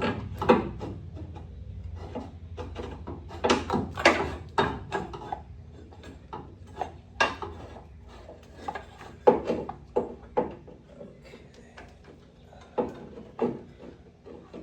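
Hand tools and metal parts clinking and knocking irregularly during work on a car, a dozen or more separate knocks and rattles.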